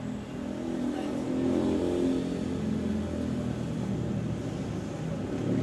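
Geely Emgrand sedan's engine heard from inside the cabin, driving slowly. The engine note rises about a second in, then eases off and runs steadily.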